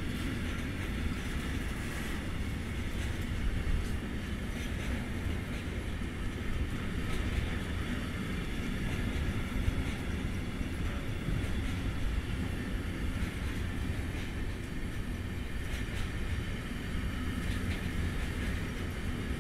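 Intermodal freight wagons rolling slowly past: a steady low rumble of wheels on rail with a few scattered clicks.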